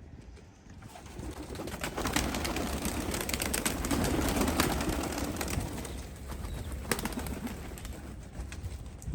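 A flock of domestic pigeons leaving the loft, wings flapping with many sharp wing claps. The rush of wings builds, is loudest in the middle and then eases.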